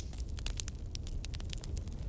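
Fireplace fire crackling: irregular quick pops and snaps over a steady low rumble.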